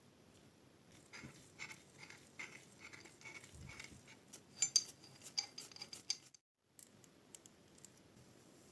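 Light metallic clicks and clinks of pipe wrench parts being fitted back together by hand, a few each second and busier with some ringing about five seconds in. They stop abruptly a little past six seconds in, leaving a few faint ticks.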